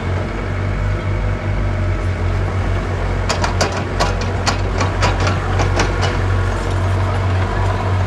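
Small bulldozer's diesel engine running steadily with a deep hum. A quick series of sharp metallic clanks comes about three seconds in and lasts for about three seconds.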